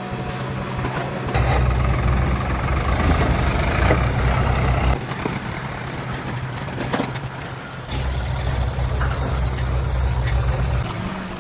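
Heavy machinery diesel engine running, swelling louder and deeper twice for about three to four seconds each: once about a second in and again near eight seconds.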